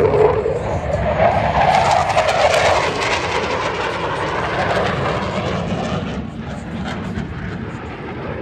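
Aircraft flying past, a loud engine rush that fades steadily as it moves away.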